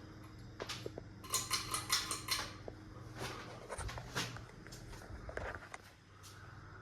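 Hampton Bay Quick Connect ceiling fan running with a steady low motor hum, and a metallic jingling and clinking for about a second near the start, with a few scattered light clicks.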